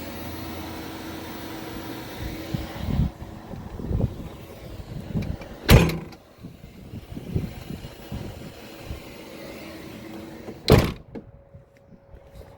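Dometic RTX1000 rooftop air conditioner running steadily on high, with irregular knocks of things being handled and two loud sharp bangs, about six seconds in and near the end; the hum drops away after the second bang.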